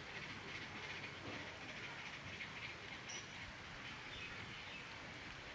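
Faint outdoor background: a steady high buzzing haze, with one short high chirp about three seconds in.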